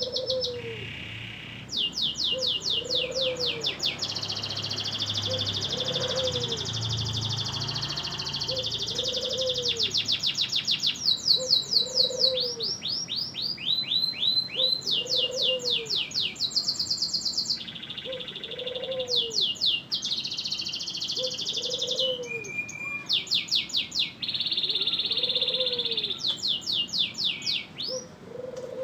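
Domestic canary singing non-stop: fast trills and rolls of rapidly repeated high notes, switching to a new phrase every second or two. Beneath the song a soft, low note repeats about every one and a half seconds.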